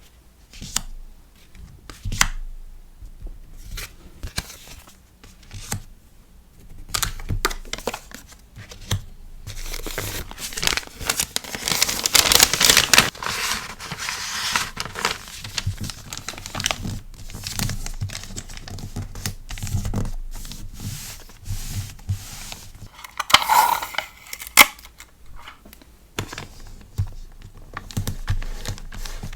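Packaging handled by hand while packing a sticker order: scattered taps and clicks, then several seconds of loud crinkling and tearing of paper or plastic, and another short tearing burst later.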